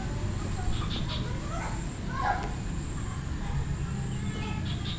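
Faint bird calls, short rising and falling chirps clustered about two seconds in, over a steady low background hum and a constant high-pitched trill.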